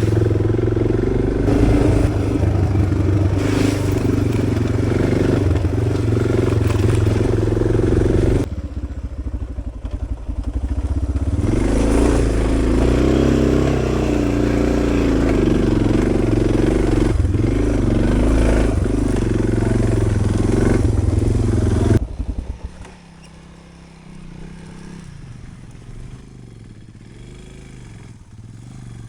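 Adventure motorcycle engine running and changing revs while riding a dirt trail, with wind rumble on the microphone. The sound jumps abruptly twice, and after about two-thirds of the way through it becomes much quieter.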